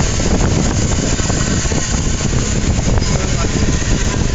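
Passenger express train running through a station: a loud, steady rumble and rattle.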